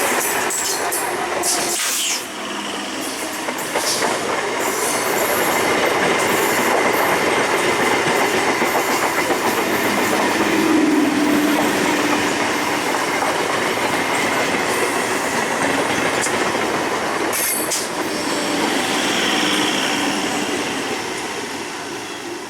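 Passenger train running past close by: a continuous rumble and rattle of wheels over the rail joints with sharp clicks and a faint squeal, fading over the last few seconds as it moves away.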